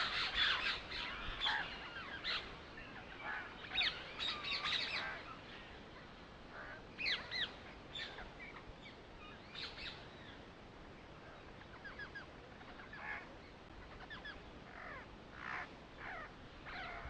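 Birds chirping and calling: a dense run of short chirps in the first five seconds, then scattered calls.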